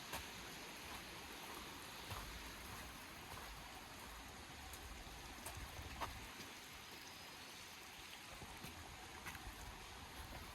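A river running steadily through the gorge as a constant rushing wash, with a few faint clicks, about 2 s and 6 s in.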